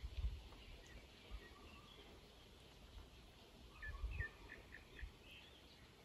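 Birds calling faintly over a quiet outdoor background, with a quick run of about five short, falling notes around four seconds in. Brief low rumbles near the start and again around four seconds are the loudest moments.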